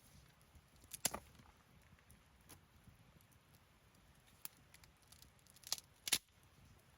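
Wood campfire burning, with scattered sharp pops and crackles from the burning wood, the loudest about a second in and near the end.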